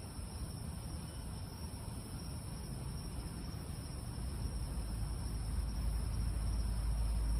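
Steady night chorus of crickets and other insects, with a low rumble underneath that builds up over the second half.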